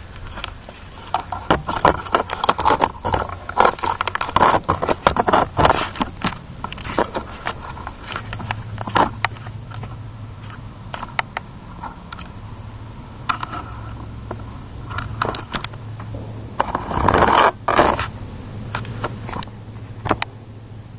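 Irregular clanks, knocks and scraping as a rototiller is manhandled down off a truck, its metal frame dragging and bumping against the truck, with a dense run of clatter near the end. A low steady hum runs underneath from about halfway through.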